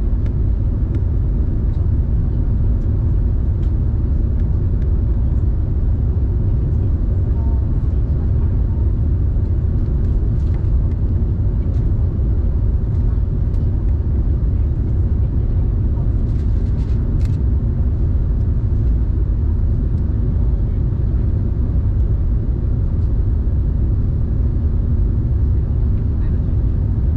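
Airbus A380 engine and airflow noise heard inside the passenger cabin: a steady, even low rumble with no change in level.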